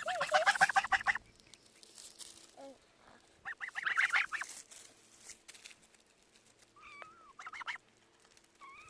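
Domestic geese honking in quick, rapidly pulsing runs of calls. The loudest run comes in the first second, another about three and a half seconds in, and a few shorter calls near the end.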